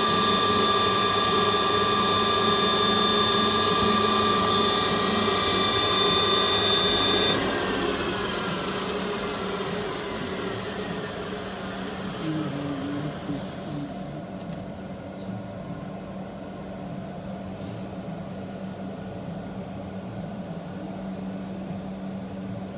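CNC lathe running with a steady multi-tone whine; about seven seconds in the whine glides down in pitch and fades as the spindle spins down. A quieter steady machine hum follows, with a brief high squeal about halfway through.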